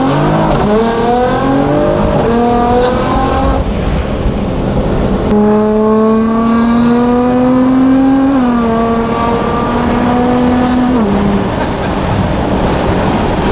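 Modified Nissan GT-R R35's twin-turbo V6, tuned to about 700 hp on E85, heard from inside the cabin under hard acceleration. Its pitch climbs steadily, dips at each gearshift, and drops away about eleven seconds in.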